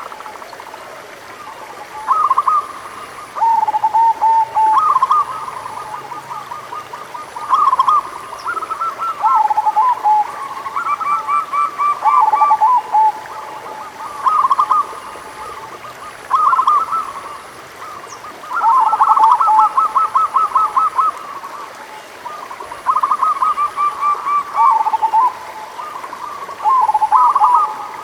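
Zebra doves (local perkutut) cooing: repeated short phrases of rapid rippling coo notes, a new phrase every second or two, with phrases at slightly different pitches overlapping as more than one bird calls.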